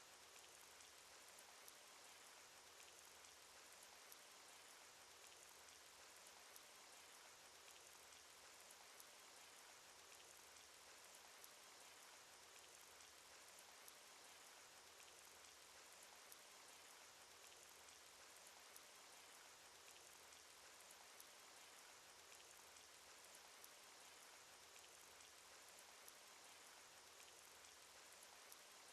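Cartoon rain sound effect: a quiet, steady patter of rain with scattered faint droplet ticks.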